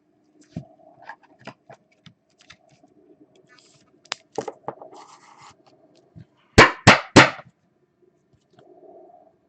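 Handling noise on a tabletop: scattered small clicks, scrapes and a short rustle, then three loud knocks in quick succession about two-thirds of the way through.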